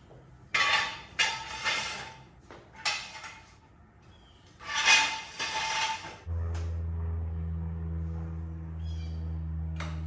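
A few seconds of clattering and clanking, like metal tools or parts being handled. Then, about six seconds in, a steady low hum starts abruptly and runs on without change.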